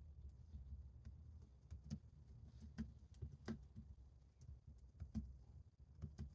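Faint, irregular light taps and clicks of desk work, over a low steady room hum.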